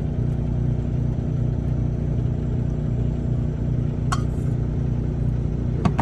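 Semi truck's diesel engine idling steadily, heard from inside the cab, with two short light clicks, one about four seconds in and one near the end.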